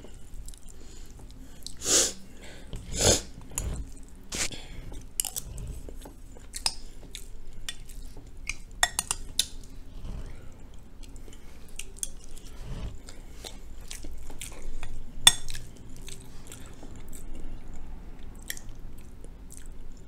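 Chewing of soft cabbage and rice, with a metal spoon clinking and scraping in a glass bowl. Two louder noisy bursts come about two and three seconds in.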